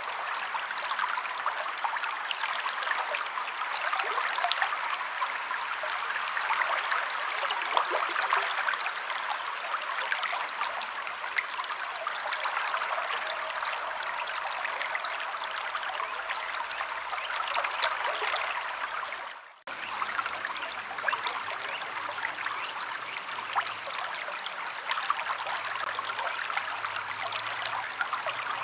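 River water flowing in a steady, crackly babble, with a few faint high bird chirps. The sound fades out for a moment about two-thirds of the way in and comes straight back.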